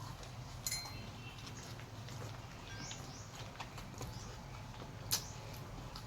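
Quiet eating sounds: chewing with a few sharp clicks, two of them louder, about a second in and near the end. Faint short chirps sound in the background.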